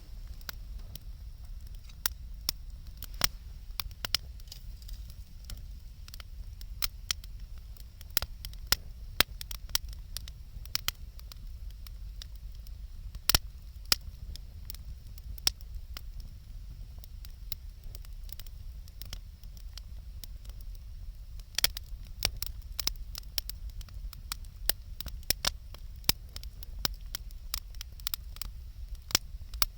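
Wood bonfire crackling: irregular sharp pops and snaps, coming thicker in the second half, over a steady low rumble.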